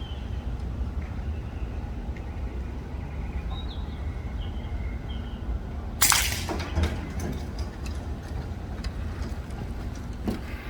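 A single shot from a .22 Brocock PCP air rifle, a sharp crack about six seconds in with a short ringing tail, over a steady low rumble.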